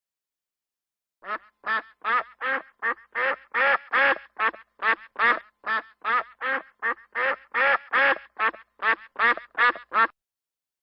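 A duck quacking in a quick, even run of about twenty quacks, two to three a second, starting about a second in and stopping shortly before the end.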